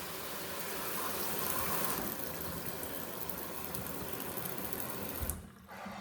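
Steady rushing hiss of water running in the plumbing, which cuts off with a short low thump about five seconds in.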